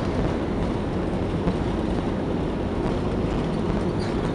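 Steady rumbling cabin noise inside an Airbus A321 rolling on the ground after landing, with engine and airframe noise at an even level.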